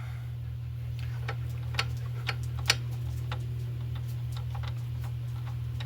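Scattered light metallic clicks and taps as the small lathe's parts are adjusted by hand, over a steady low hum.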